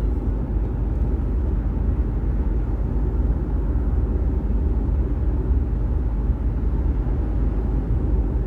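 Steady low road rumble of a car driving on wet pavement, an even noise with no change or separate events.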